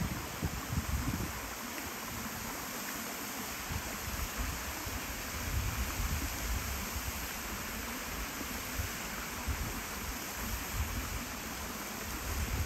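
Steady rush of flowing river water, with low wind buffeting on the microphone during the first second or so.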